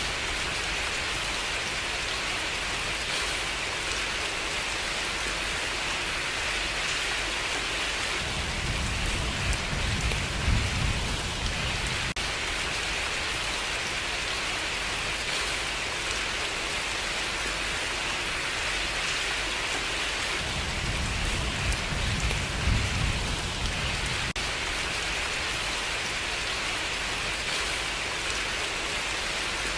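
Steady rain falling in an even hiss, with two low rumbles swelling up, about 8 seconds and 20 seconds in.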